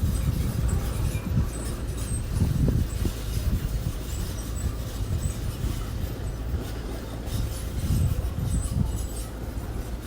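Small construction machine's engine running with a steady low rumble, swelling louder twice, once early and once near the end, with faint metallic clinks.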